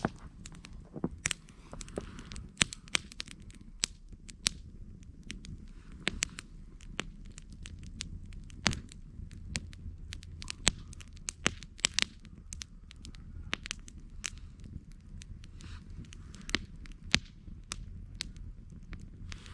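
Wood campfire crackling, with many irregular sharp pops, a few of them loud, over a low steady rumble.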